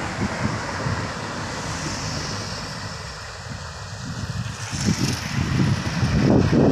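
Heavily loaded sugarcane truck's engine labouring at full throttle through a sharp bend, with wind buffeting the microphone. It grows louder in the second half as the truck comes closer.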